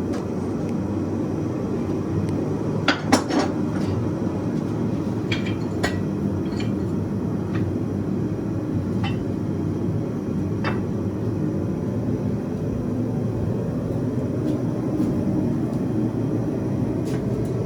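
Propane forge running with a steady rush of burning gas, over which steel and tongs clink a few times against metal, most sharply in a quick cluster about three seconds in.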